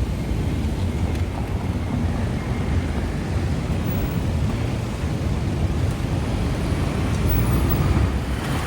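Passenger train running on the rails: a steady low rumble with a fainter hiss above it.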